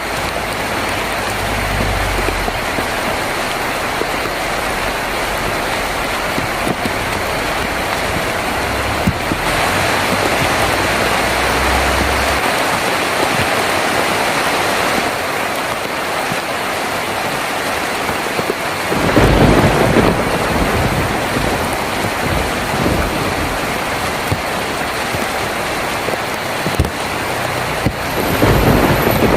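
Heavy rain drumming steadily on a tin roof, with thunder rumbling low underneath; the loudest roll of thunder comes about two-thirds of the way through, and another swells near the end.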